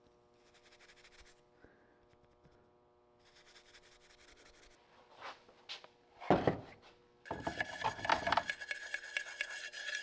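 Steel wool scrubbing a metal lantern part, a fast continuous rubbing that starts about seven seconds in after a knock. Before that there are only faint scratching sounds.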